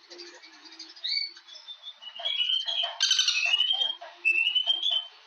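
Birds chirping in short phrases of quick rising and falling notes, one phrase following another every second or so.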